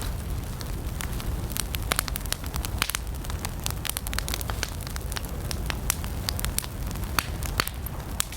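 Wood campfire burning, with frequent irregular sharp crackles and pops over a steady low rumble of flames.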